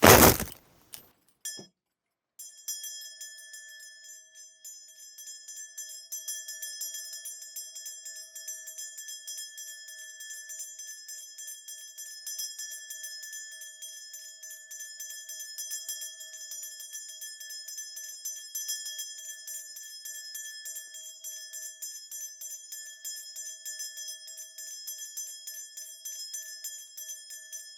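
A shaman's cluster of brass ritual bells shaken rapidly and without pause, a continuous bright jingling with a steady ring, as used while calling up a divination reading. A sharp knock comes right at the start, and the jingling begins about two seconds in.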